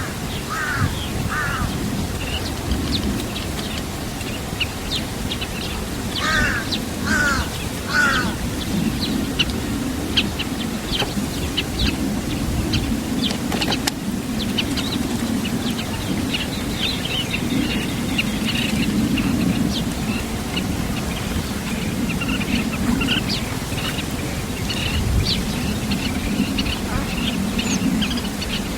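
Small birds chirping and calling, with many short high notes and a few louder falling calls, over a steady low rumble.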